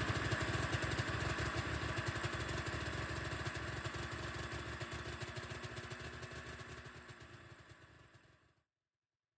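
Snowmobile engine idling with a quick, even firing beat, gradually fading away and ending in silence near the end.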